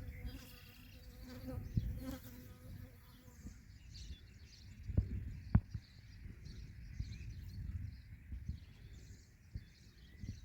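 A flying insect buzzing close by for the first few seconds, over a low rumble, with faint high chirps throughout. Two sharp taps come about halfway.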